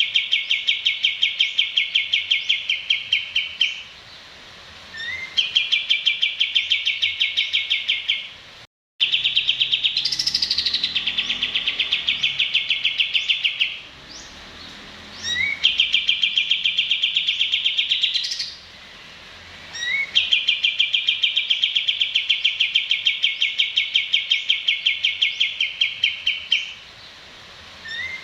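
A songbird giving long runs of rapid, evenly repeated high notes, each run lasting several seconds, with a short pause and a quick rising note between runs; the sound drops out completely for a moment near the start of the second run.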